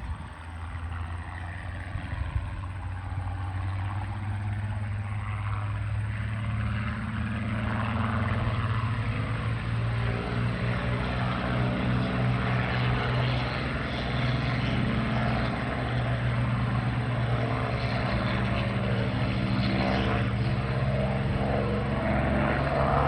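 Rolls-Royce Griffon V12 of a Supermarine Spitfire and Rolls-Royce Merlin V12 of a P-51D Mustang running together with a deep, steady hum, growing louder over the first several seconds and then holding.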